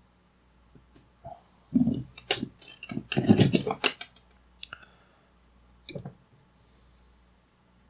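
Hand tools and parts being handled on a radio chassis during capacitor removal: a run of clicks, scrapes and small knocks between about two and four seconds in, then a couple of single clicks.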